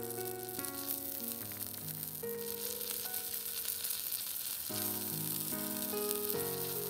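Duck breast sizzling in a miniature cast-iron skillet, a steady hiss that grows stronger about two seconds in, with instrumental background music.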